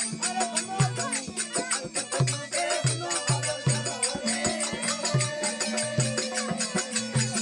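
Instrumental passage of a Rajasthani desi bhajan: a steady low drum beat with rattling hand percussion and a wavering held melody line over it.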